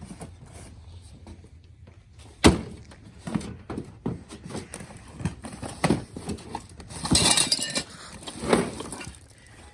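Objects being handled and set down: a sharp knock about two and a half seconds in, the loudest sound, then scattered smaller clunks and a brief rustle near the end.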